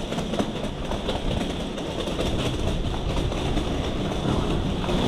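Metro train running: a steady rumble and rattle.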